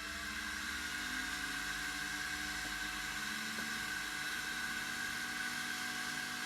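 Forward blue laser back-glass removal machine just switched on, running with a steady hum and a constant whine.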